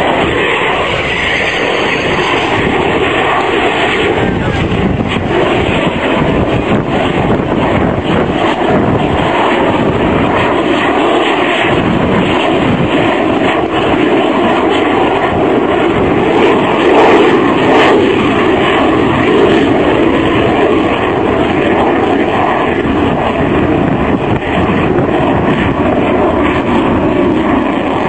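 Loud, steady jet noise from an F-16 fighter in a flying display, its single Pratt & Whitney turbofan running hard, swelling slightly in loudness about two-thirds of the way through.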